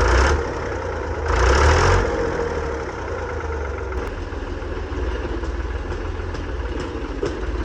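Tractor engine running at a steady idle, with two brief louder rushes of noise near the start.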